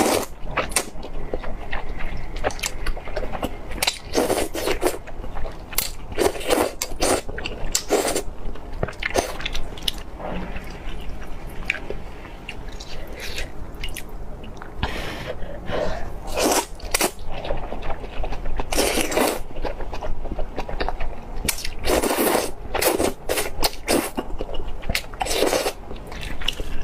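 Close-miked eating: crunchy bites and chewing, with irregular crisp crunches and louder bursts every second or two.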